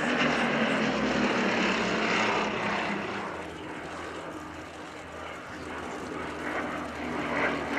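Piston engine of a propeller-driven Second World War fighter passing in flight. It is loudest at the start, fades away around the middle, and builds again near the end as aircraft come round.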